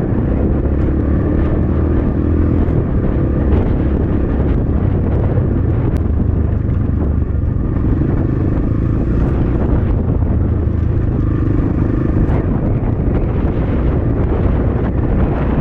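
X-Pro Templar X 250 dirt bike engine running while riding, its pitch rising and falling with the throttle. Heavy wind rumbles on the microphone throughout.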